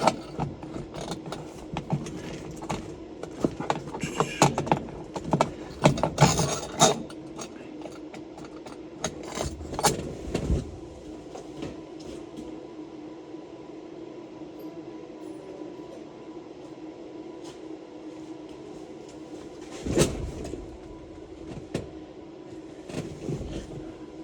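Scattered clicks, knocks and rattles of small parts and hardware being handled and fitted behind a car's dashboard, thick in the first half, with a louder knock about 20 seconds in, over a steady low hum.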